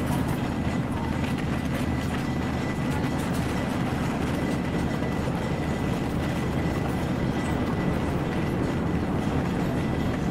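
Electric passenger train running at speed, heard from an open carriage window: a steady rumble of the carriage and wheels on the track, with a thin steady high whine above it.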